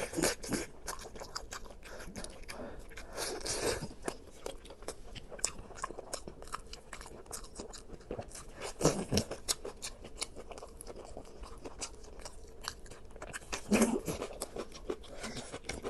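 A person biting and chewing crunchy food, with many small crackling clicks and louder crunching bites about three, nine and fourteen seconds in.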